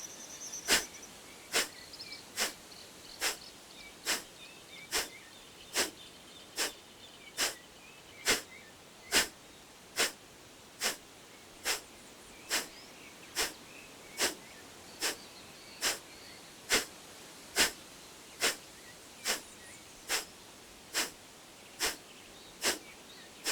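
Kapalabhati (skull shining breath): a steady series of short, sharp, forceful exhales snapped out through the nose, a little under one a second, each followed by a quiet passive inhale. About 28 strokes of a 30-pump round.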